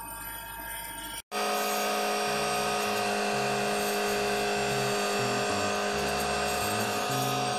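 Mahindra 2638 tractor's diesel engine running steadily with the snowblower for about a second, then a sudden cut into louder music with a pulsing bass line.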